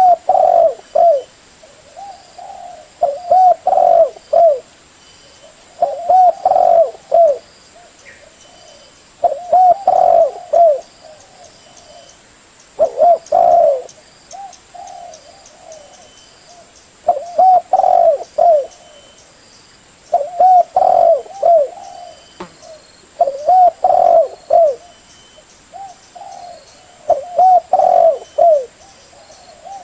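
Spotted dove (Spilopelia chinensis) cooing: a short phrase of several hooting notes, repeated about every three to four seconds.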